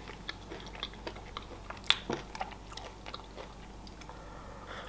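Quiet close-up mouth sounds of chewing chocolate: small scattered clicks and smacks, one sharper than the rest about two seconds in.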